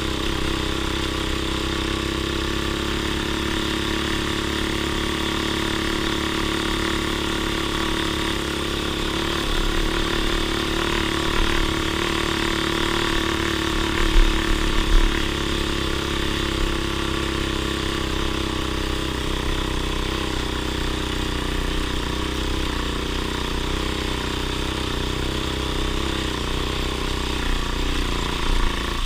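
Off-road vehicle engine running steadily at a constant speed, with a couple of short low thumps about halfway through.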